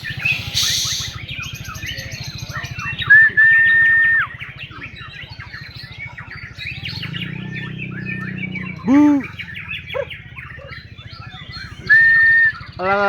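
Many songbirds singing at once, including white-rumped shamas, in a dense mix of chirps and trills. Two long, loud, level whistle notes come about three seconds in and again near the end.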